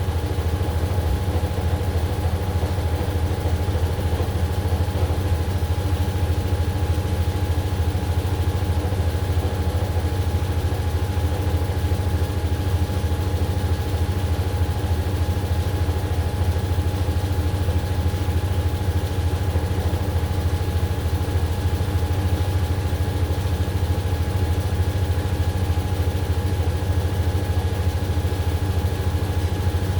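AQUA AQW-DX12M drum washing machine spinning at a steady speed: an even low motor hum with a few steady higher tones and no pauses.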